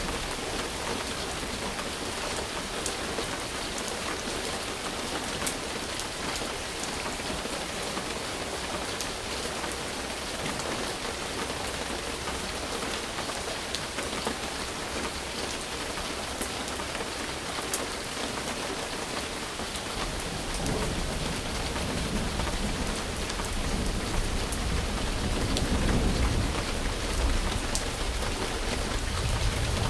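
Steady rain falling, with a low rumble of thunder coming in about two-thirds of the way through and growing louder toward the end.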